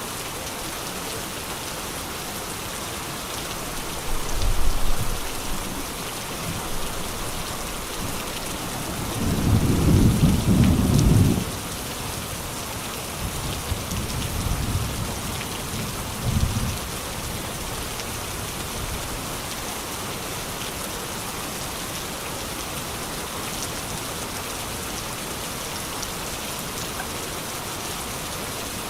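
Steady heavy rain hissing, with thunder rumbling several times: a short roll about four seconds in, a longer and louder one a little before the middle, and two weaker rumbles soon after.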